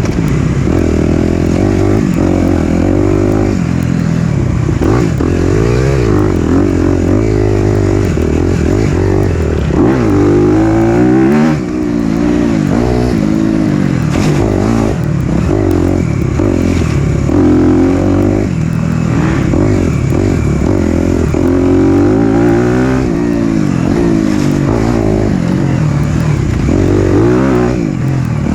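Four-stroke single-cylinder dirt bike engine on a trail ride, revving up and dropping back again and again as the rider works the throttle, with scattered short clatters.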